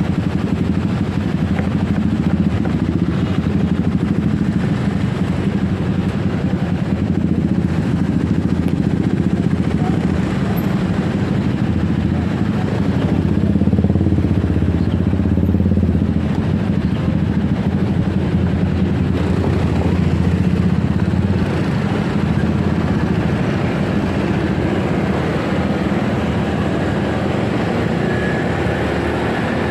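Motorcycle engine running steadily while riding, with a steady low rumble that swells a little a few times.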